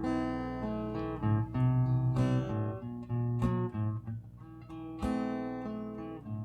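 Acoustic guitar strummed and picked, playing chords with no singing.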